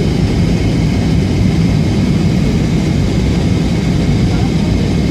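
Steady cabin noise inside an Airbus A320 on approach: a low rumble of engines and rushing air, with faint steady high tones above it.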